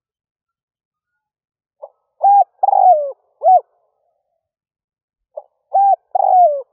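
Spotted dove calling: two phrases of its coo, each a soft lead note followed by a short coo, a longer coo that slides down in pitch, and a final short coo, starting about two seconds in.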